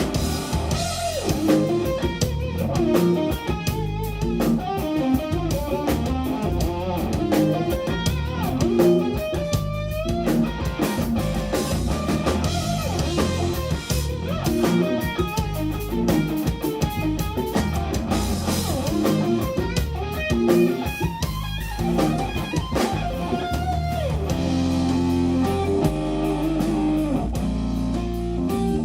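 Live instrumental jazz-rock played by a guitar, bass and drums trio: an electric guitar carries a busy melodic line with string bends over a running bass line and drum kit.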